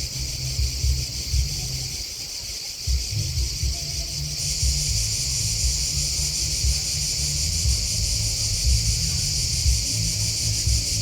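Dense chorus of chirping field insects, a continuous high-pitched shrilling that grows louder about four seconds in. An uneven low rumble runs underneath and drops out briefly about two seconds in.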